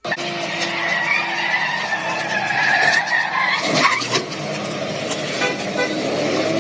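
Car driving hard with its tyres squealing: a wavering high squeal over the engine and road noise, with a sharper, louder noise about four seconds in.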